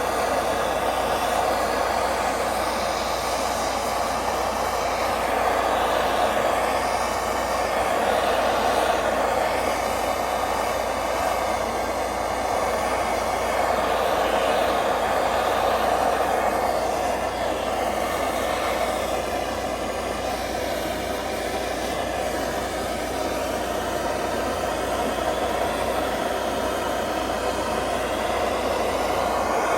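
Blowtorch flame running steadily with a continuous rushing hiss, drying and heating a freshly cleaned engine block. The level swells and eases slowly.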